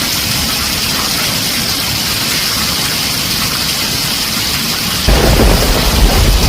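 Heavy rain drumming on a tin roof as a steady hiss. About five seconds in, a deep thunder rumble comes in abruptly and the whole sound gets louder.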